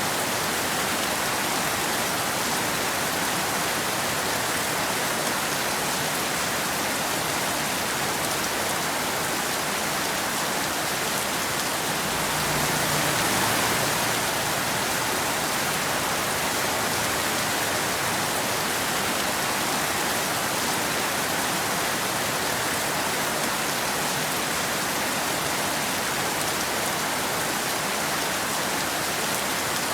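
Steady rain falling: an even, unbroken hiss that swells slightly about twelve seconds in.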